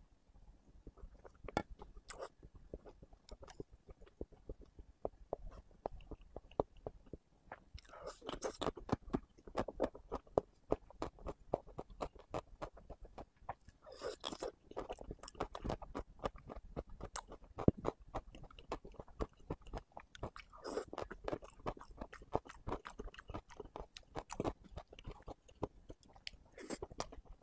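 Close-miked chewing and wet mouth sounds of someone eating spicy braised pork brain, many small clicks with louder bursts about every six seconds.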